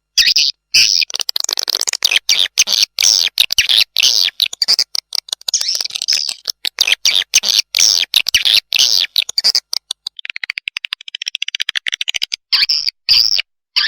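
Recorded swiftlet lure call: edible-nest swiftlet chicks' rapid, high twittering chirps, repeated in quick bursts with short gaps, and a fast rattling run of clicks about ten seconds in.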